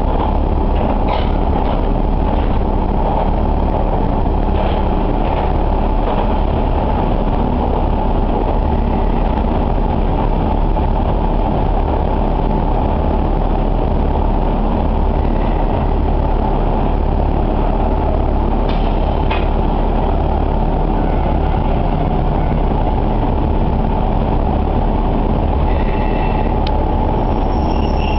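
Diesel railcar of the Nagara River Railway running along the line, heard from inside the cabin: a steady low drone of engine and wheels on the rails. A thin high-pitched tone comes in near the end.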